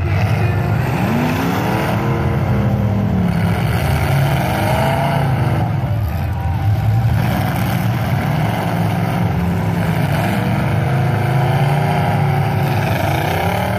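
Several demolition derby cars' engines running and revving, with the pitch rising and falling over and over.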